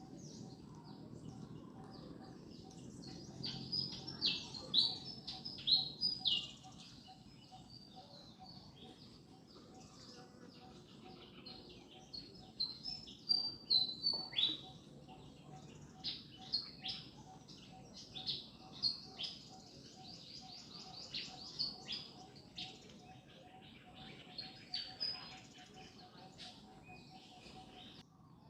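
Birds chirping in quick runs of high, falling notes, coming in several bouts, over a faint steady background tone.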